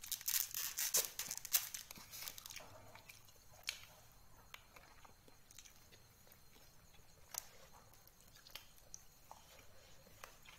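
A person chewing and crunching food up close: a dense run of crackly crunching for the first two or three seconds, then a few scattered sharp clicks.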